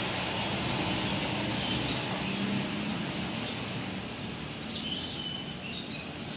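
Steady outdoor background noise with birds chirping briefly, a couple of times about two seconds in and then repeatedly in the second half.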